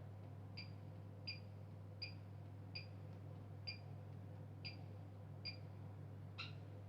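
Bosch Maxx 5 washing machine running quietly with a steady low hum, and a light click about every three-quarters of a second.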